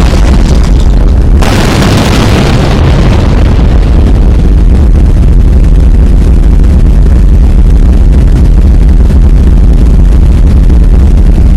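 Volcanic eruption of Hunga Tonga–Hunga Ha'apai heard on amateur phone footage: a continuous, very loud deep rumbling boom that overloads the recording, with an abrupt change about a second and a half in.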